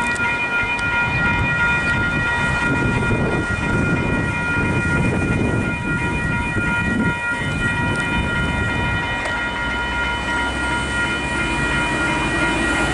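Level crossing's Western Cullen Hayes electronic bell ringing without a break, warning of an approaching train, over a low rumbling noise.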